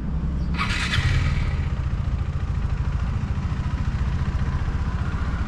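Motorcycle engine idling with a steady low pulsing rumble, with a brief noisy rush about half a second in.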